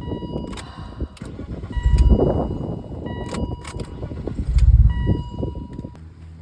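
BMW E39 engine being cranked by its starter in three separate bursts of about a second each, turning over without catching: it is getting no fuel, which the owner puts down to air in the lines and a misplumbed fuel filter.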